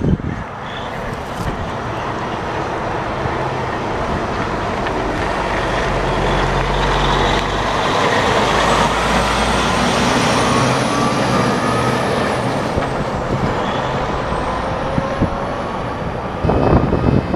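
A heavy dump truck's diesel engine driving past, growing louder to a peak about halfway through and then fading as it moves away.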